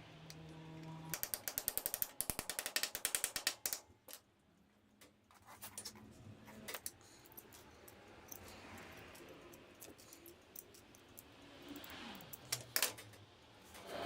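A rapid run of sharp ratcheting clicks, about ten a second, lasting roughly three seconds, then scattered lighter clicks and knocks of tool handling.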